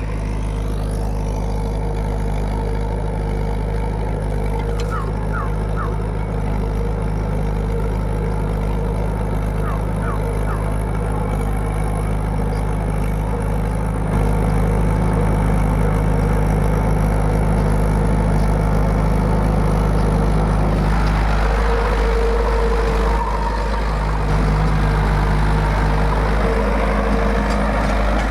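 Mahindra 475 DI tractor's four-cylinder diesel engine running steadily, with a change in its note about three-quarters of the way through.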